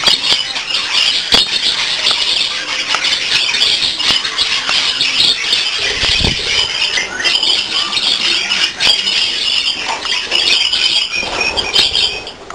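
A flock of budgerigars chattering and squawking without a break, with scattered sharp clicks among the calls.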